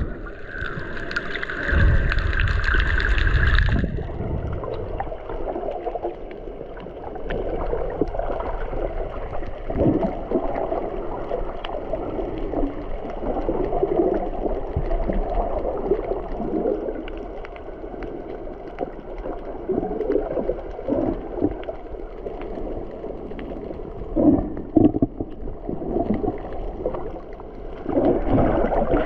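Water sloshing and gurgling against a boat's hull, in uneven surges, with a low rumble of wind on the microphone. A steady high-pitched tone sounds for about three seconds near the start and then cuts off suddenly.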